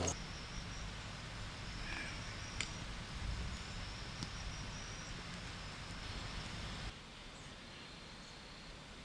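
Faint outdoor ambience: a steady high insect drone, with a few short bird chirps about two seconds in. A low rumble underneath drops away about seven seconds in.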